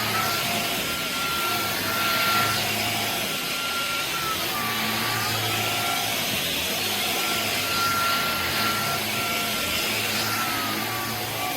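Dyson Gen5 cordless stick vacuum running steadily, a rush of air under a high motor whine. The whine dips in pitch twice, briefly.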